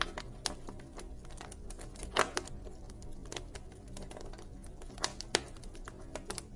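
Wood fire crackling in a fireplace: a dense run of small irregular snaps, with two louder pops about two seconds in and about five seconds in, over a low steady rumble.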